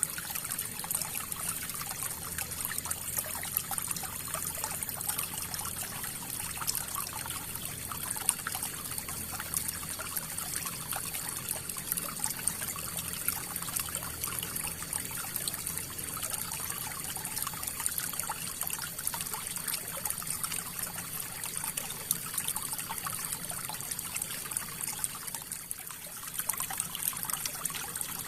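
River water flowing: a steady rush with many small trickles and splashes.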